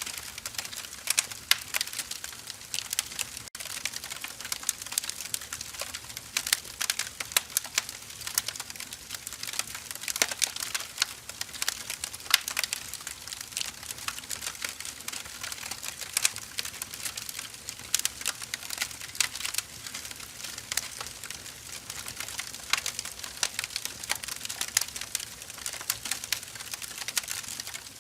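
Firewood burning, with dense irregular crackles and pops over a soft hiss.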